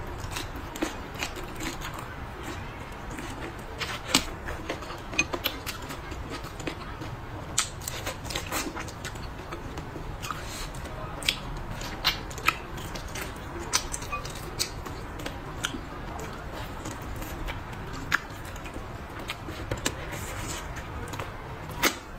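Eating sounds: chewing and lip smacks as braised pork ribs and a blistered green chili pepper are bitten and chewed, with irregular short, sharp clicks throughout.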